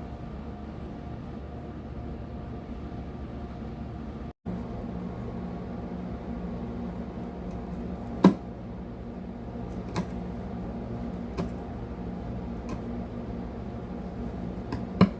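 A steady low electrical or appliance hum, with a few soft, sharp clicks spread through it and a brief total dropout about four seconds in.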